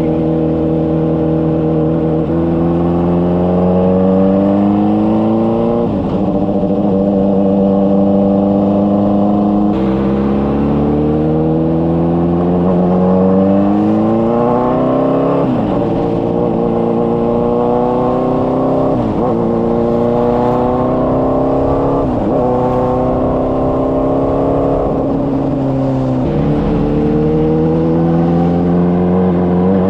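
Honda CBR600RR inline-four engine and exhaust under hard acceleration. The revs climb again and again, with a sharp drop in pitch at each gear change, about eight times.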